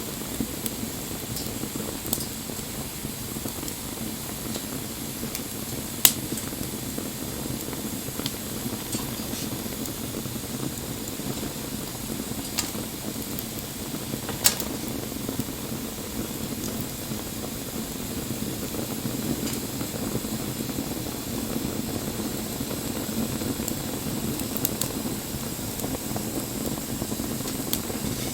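Wood fire burning in the open: a steady rushing hiss with scattered crackles and a few sharp pops, the loudest about six seconds in and another near the middle.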